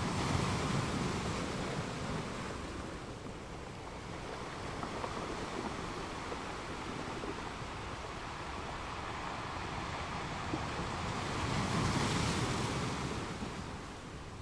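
Sea waves washing in, a steady rush of surf that swells once at the start and again about twelve seconds in, then eases off.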